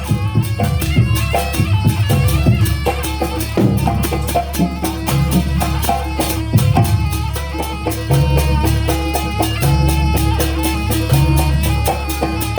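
Live Banyuwangi jaranan ensemble music: a melody moving in stepped notes over a steady held drone, with rapid, even percussion strokes and a heavy bass.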